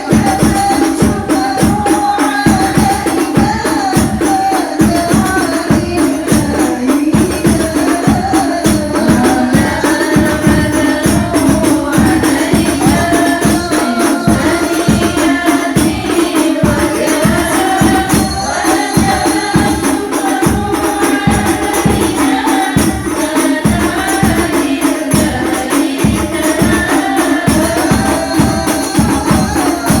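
Group singing of sholawat, voices in unison, over frame drums struck in a steady quick beat.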